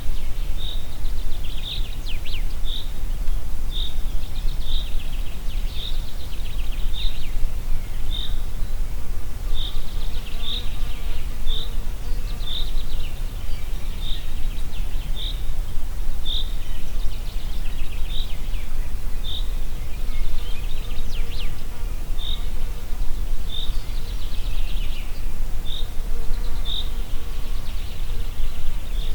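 Wind in the forest, a steady low rumble that is the loudest sound, with a short high chirp repeating about once a second over it.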